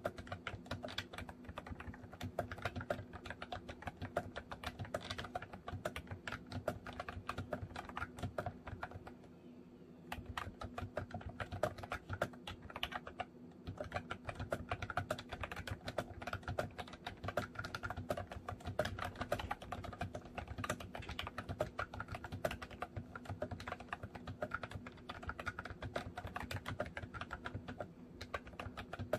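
Typing on a MOFii Retro Style Candy keyboard: a quick, uneven run of key clicks, with a short pause about nine seconds in and another brief break around thirteen seconds.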